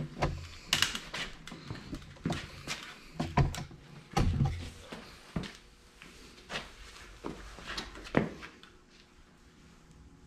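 Irregular metal knocks and clanks from hammering a driver to seat a cam bearing in a CAT D4D bulldozer engine block, the heaviest blows about 3.5, 4 and 8 seconds in. The bearing is tight and barely moving.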